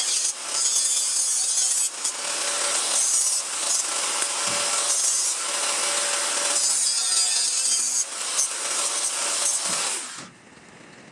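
Power tool working the steel of the rear fender panel in a continuous run, with brief dips about two and eight seconds in. It stops suddenly near the end.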